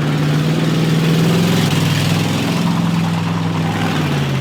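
A car engine running steadily at low revs, its pitch dipping slightly near the end.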